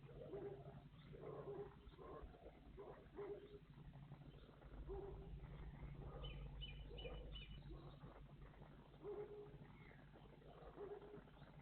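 Faint bird calls: short low notes repeated at irregular intervals, and a quick series of four high notes about six seconds in, over a steady low hum.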